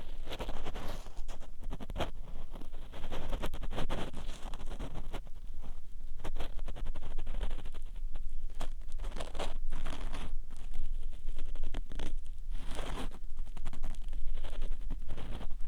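Close, strong ear-cleaning sounds on a 3Dio binaural dummy-head microphone: an ear-cleaning tool scraping and rubbing inside the mic's ear. It makes a continuous run of scratches and small sharp clicks.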